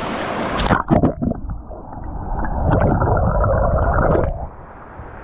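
Sound picked up by a GoPro's microphone as it is plunged under water. Open-air water noise cuts off less than a second in, and the rest is muffled underwater gurgling and rumbling with some knocks, louder in the middle.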